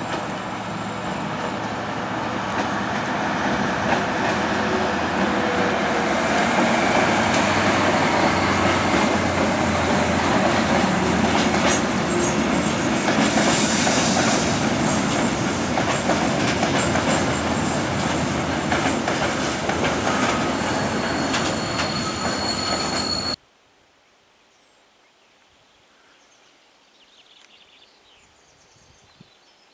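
SNCF BB 60000 diesel locomotives running past close by, followed by a long train of loaded grain hopper wagons rolling over the track, with steady wheel-on-rail noise and a thin high wheel squeal near the end. The sound cuts off abruptly about 23 s in, leaving only faint outdoor background.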